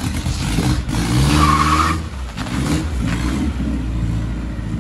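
Turbocharged Volvo wagon's engine running and being revved as the car is driven slowly, its note rising and falling. A brief high squeal about a second and a half in.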